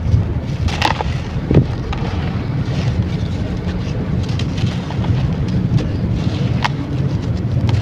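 Crunchy baked sand chunks crumbling and crackling with scattered sharp crunches, over a steady low rumble.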